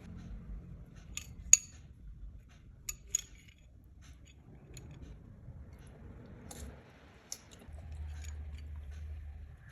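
Light clicks and clinks of kitchen utensils against a dish during food preparation, with a few sharp ticks, the loudest about a second and a half in and again about three seconds in, over soft handling noise.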